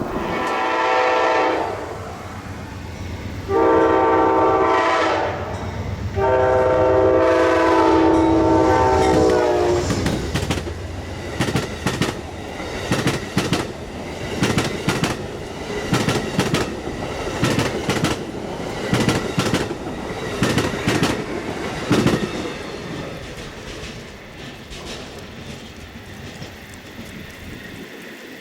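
Diesel locomotive horn sounding three blasts, the last the longest, over a low engine rumble as a train passes. It is followed by a long run of wheels clicking over rail joints, fading near the end.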